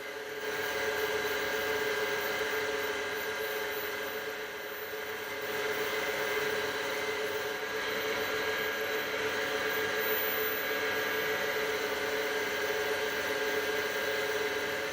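Wood lathe running with a steady motor whine while fine mesh sandpaper is held against the spinning purpleheart pen blank, adding an even hiss. The sanding swells about half a second in, eases briefly around four to five seconds, then picks up again.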